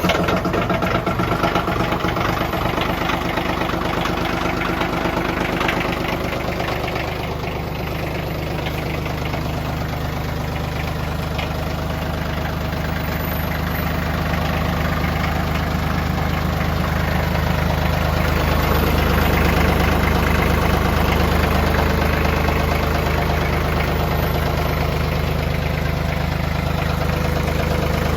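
TYM 2515h compact tractor's diesel engine running steadily just after a cold start, its throttle set a little above idle.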